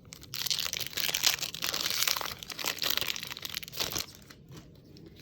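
Foil wrapper of a Magic: The Gathering draft booster pack crinkling and tearing as it is opened, lasting nearly four seconds before it stops.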